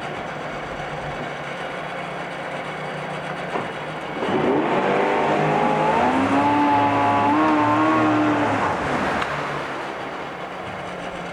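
A 1994 Mercury 40 hp oil-injected two-stroke outboard runs in a test tank. It idles steadily, then about four seconds in it revs up to a higher steady speed for around five seconds before dropping back to idle.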